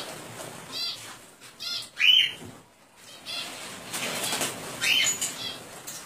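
Small caged birds fluttering their wings and giving short sharp calls, loudest about two seconds in and again near five seconds: the birds are agitated by a snake climbing the aviary mesh.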